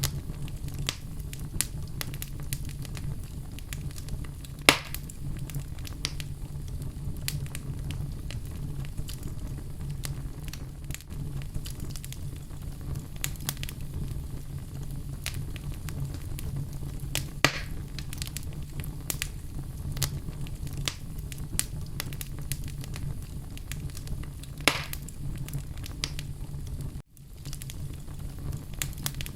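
Wood fire burning in a fireplace, crackling steadily over a low rumble of flames, with three louder pops spread through it. The sound cuts out for a split second near the end.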